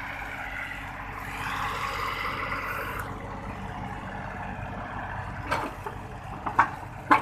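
Hitachi 50 mini excavator's three-cylinder diesel engine running steadily as the machine tracks, with a few sharp metal clanks near the end from its loose track, which is riding up off the rollers.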